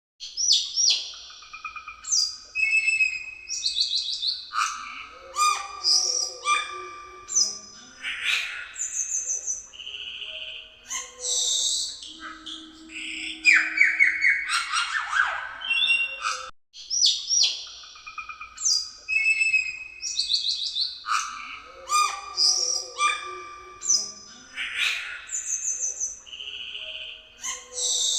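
A cucak keling singing in full voice: a fast, varied run of clear whistles, rapid trills and harsh notes. The same song phrase sequence, about 16 seconds long, plays through once and then repeats from the start.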